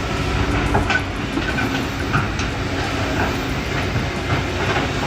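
Kobelco excavator's diesel engine running steadily under load, with a few scattered knocks and clatters as it handles heavy stones.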